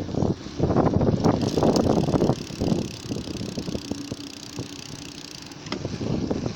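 Wind buffeting a microphone mounted by a bicycle's back wheel, over rumble from the tyre and road. The noise eases for a few seconds in the middle, where a run of faint ticks comes through, then picks up again near the end.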